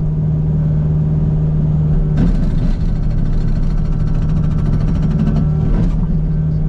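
Kubota U55 mini excavator's diesel engine running at a steady speed. From about two seconds in to about six seconds a harsher rattling noise joins the engine hum, then drops away.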